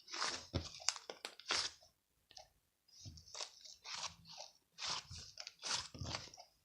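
Crunchy food being bitten and chewed close to the microphone: a string of crisp crunches with short pauses between them.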